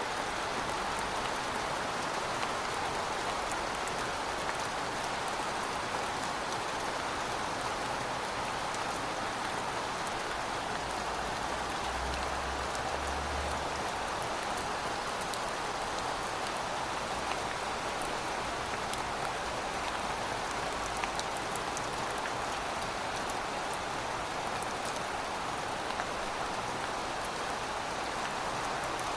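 Steady rain falling on surfaces: a dense, even hiss with many small, sharp drop ticks through it.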